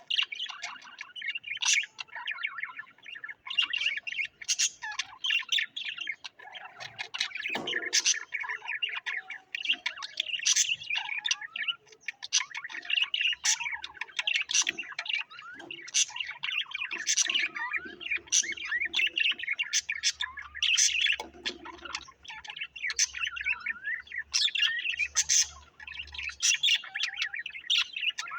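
Small cage birds chirping and twittering without pause, many short high notes overlapping one another.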